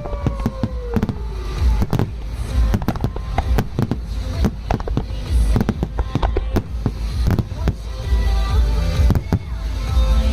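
Fireworks display: a rapid, irregular barrage of shell bursts and crackling over a deep booming rumble.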